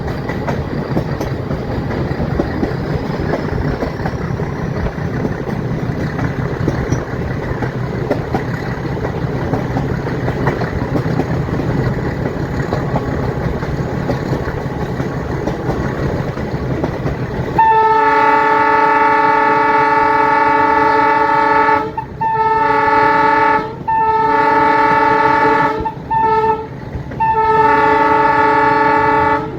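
Metre gauge train running with a steady rumble, then its YDM-4 diesel locomotive's horn sounds about eighteen seconds in: a long blast of several notes together, followed by four more blasts, one of them very short.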